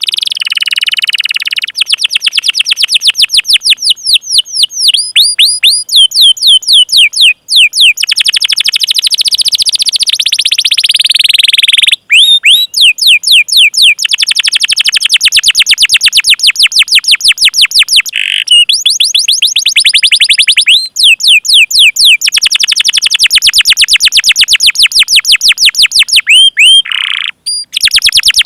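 Canary singing a long rolling song: fast runs of sharp, repeated downward-sweeping chirps and trills, broken by a few short pauses.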